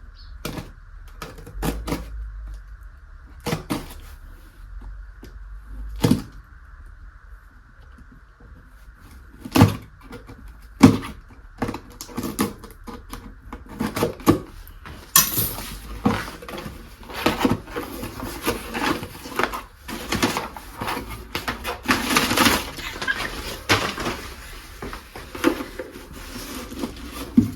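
Handling of a delivered package: scattered knocks and clicks, then about halfway through a continuous rustling and crackling of packaging being opened.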